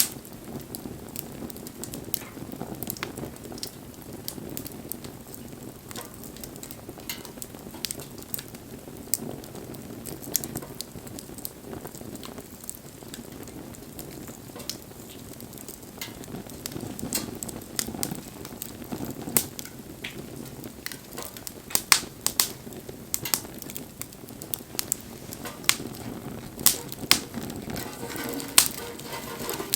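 Wood fire crackling and popping, with sharp irregular snaps over a steady low rush of burning. The pops come more often in the second half.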